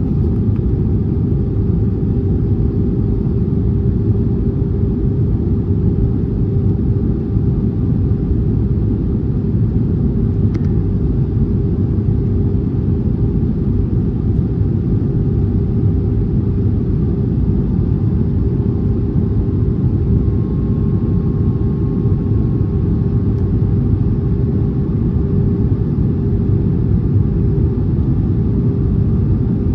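Airbus A320neo cabin noise heard from a window seat during the descent toward landing: a loud, steady rumble of engines and airflow with a constant hum running through it.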